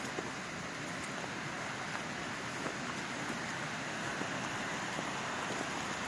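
Mountain stream rushing steadily, an even unbroken water noise.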